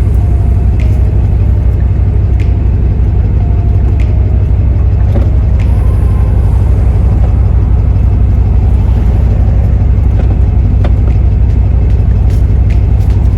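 Loud, steady low rumble inside a car's cabin: engine and road noise.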